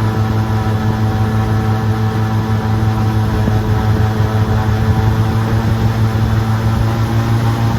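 Airboat's engine and air propeller running at a steady speed, a loud, even drone.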